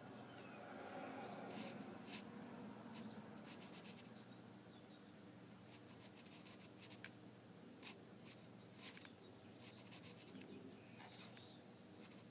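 A drawing tool scratching faintly on paper in short, irregular strokes.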